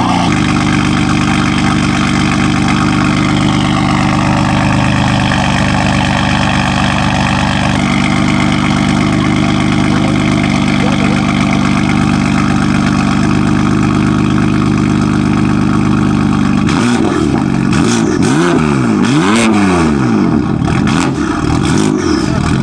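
BMW F82 M4's S55 twin-turbo inline-six, fitted with a single mid-pipe exhaust, idling loudly while still cold, the idle settling a little lower a few seconds in. Over the last few seconds it is revved in several quick blips, each rising and falling, without pops because the engine is still cold.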